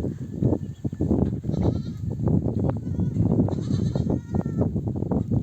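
A flock of sheep bleating over one another, mother sheep and lambs calling back and forth, with one clear higher-pitched bleat about four seconds in.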